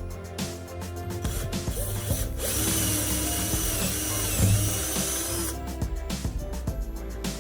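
An electric power tool runs for about three seconds in the middle, with a high whine and hiss, over background music.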